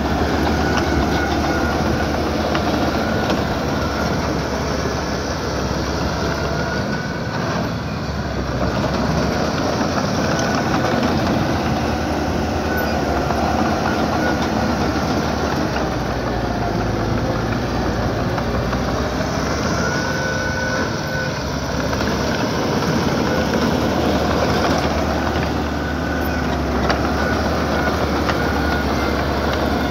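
Small crawler bulldozer working, its diesel engine running steadily under a continuous clatter of steel tracks, with a few brief high squeaks.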